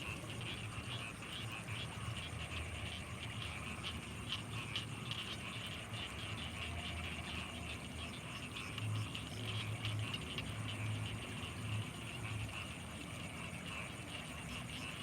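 Night chorus of frogs and insects in rice paddies: dense, fast chirping and trilling over a steady high-pitched insect whine. A low hum runs underneath and swells in a few short pulses a little past the middle.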